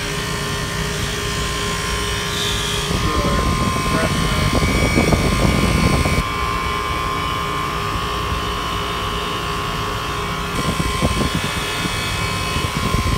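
Commercial refrigeration condensing unit running: a 1 HP compressor and condenser fan giving a steady hum and whine, swelling louder twice. It sounds like crap because its undersized 3/8-inch suction line can't return enough gas, so the compressor is starved and running with very high superheat.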